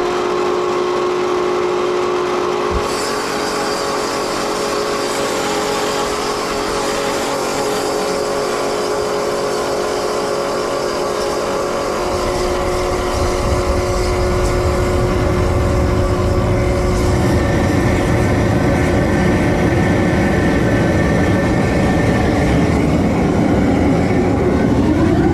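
Propane burner firing into a homemade crucible furnace, with a steady hum and hiss. A steady tone rises as it starts and falls away at the end, and a low rumble builds from about halfway through.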